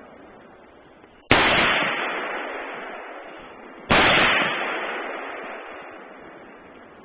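Two AR-15 rifle shots about two and a half seconds apart. Each is a sharp crack followed by a long fading tail.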